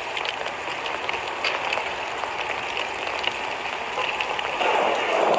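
Heavy rain falling on a flooded road: a steady hiss of drops on standing water, with scattered small ticks. A louder, lower rush swells in near the end.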